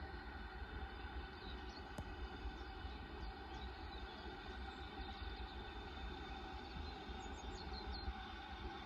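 A railway locomotive giving a steady hum with several held tones over a low rumble, with small bird chirps now and then.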